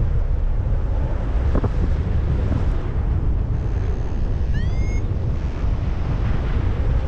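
Strong wind buffeting a GoPro's microphone in flight, a steady low rumbling rush. About four and a half seconds in, a short high chirp rises in pitch and levels off.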